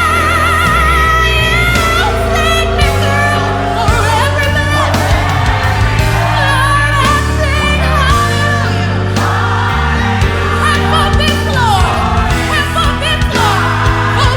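Live gospel worship music: voices singing over a full band, with a singer's wide vibrato near the start and a moving bass line underneath.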